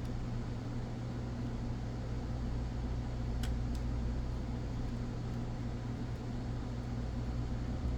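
Steady low electrical or mechanical hum in the room, with a couple of faint small clicks about three and a half seconds in.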